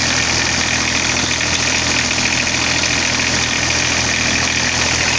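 Diesel engine of a 2007 Toro 3500D Sidewinder mower idling steadily with a diesel clatter, running after its clogged fuel filter was replaced and the fuel system primed.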